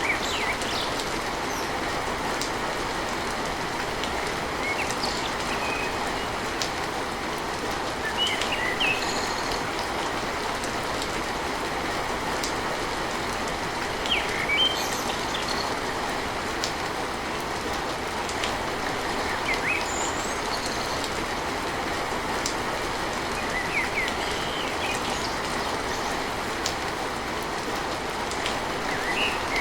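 Steady heavy rain drumming on a tin roof, an even wash of noise, with occasional short high-pitched sounds scattered over it.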